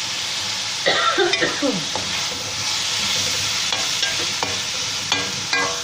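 Minced beef with onions and ginger-garlic paste sizzling as it fries in oil in a kadhai, with a steady hiss. It is being stirred, the utensil scraping and knocking against the pan a few times.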